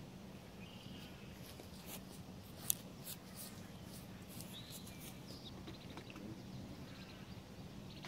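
Faint outdoor ambience with a few short, faint bird chirps and a steady low hum, broken by a sharp click about a third of the way in.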